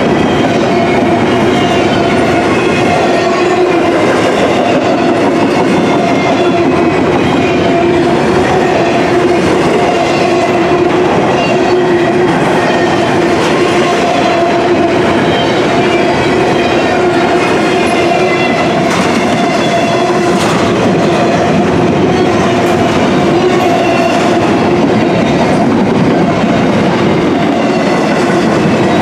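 Empty double-stack intermodal well cars of a freight train rolling steadily past: a continuous loud rumble and clatter of steel wheels on rail, with a steady high tone running through it and a few sharper clacks about two-thirds of the way through.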